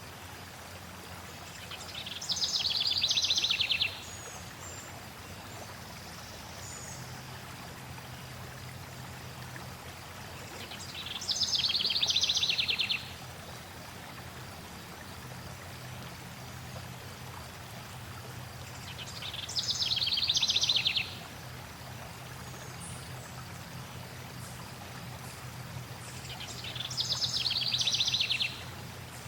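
Steady flowing water, with a songbird singing the same fast trilled phrase four times, about eight seconds apart. Each phrase swells over a second or two and then stops abruptly.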